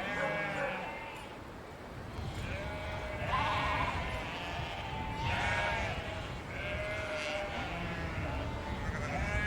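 Several sheep bleating, their calls at different pitches overlapping and following one another, over a steady low rumble.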